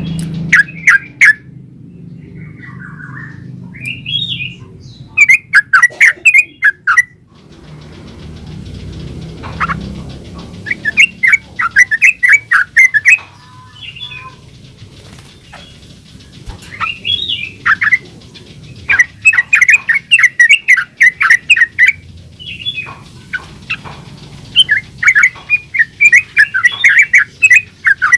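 Yellow-vented bulbul (trucukan) singing loudly in repeated bursts of quick, bubbling chattering phrases, with short pauses between bouts.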